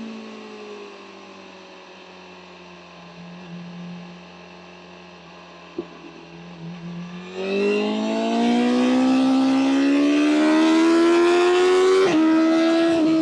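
BMW M1000R's inline-four engine winding down to low revs and running quietly for several seconds. About halfway through it opens up hard, its pitch rising steadily, with a brief dip near the end at a gear change.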